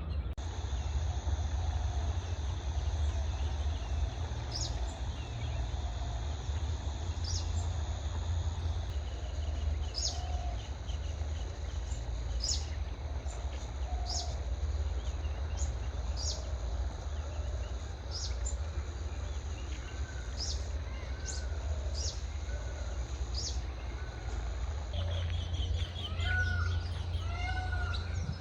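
Forest ambience: insects trilling steadily at several high pitches, with regular sharp ticks and repeated short bird calls that grow busier near the end, over a low steady rumble.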